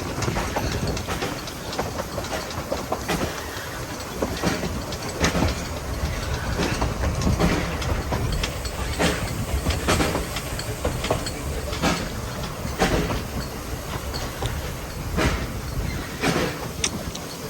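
A train running along the track, with a steady rumble and frequent irregular clicks and knocks of wheels over rail joints.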